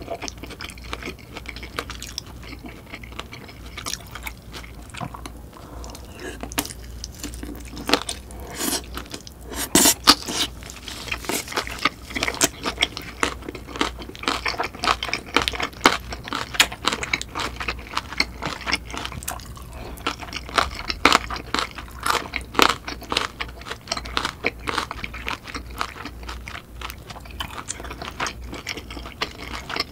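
Close-miked chewing and biting of kielbasa sausage and curry rice: wet mouth clicks and crunches coming thick and irregular, loudest about ten seconds in.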